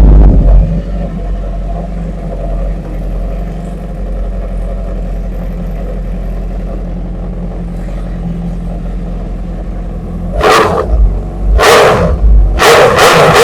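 2012 Suzuki GSX-R's inline-four engine with an aftermarket exhaust, just started: it comes down from a loud high idle in the first second and idles steadily. It is then revved in three short throttle blips over the last three seconds.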